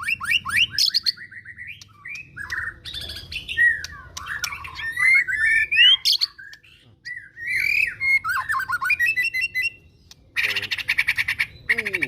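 Male white-rumped shama (murai batu) singing a loud, varied song of whistles, rising and falling glides and rapid trills, with a harsh rattling burst near the end.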